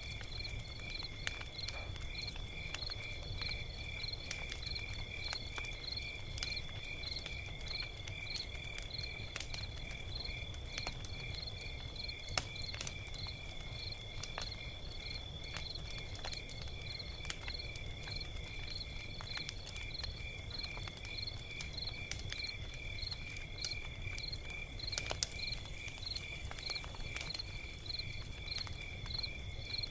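Log fire crackling, with irregular sharp pops over a low rumble. Behind it, a high insect chirping keeps a steady rhythm of about two to three chirps a second.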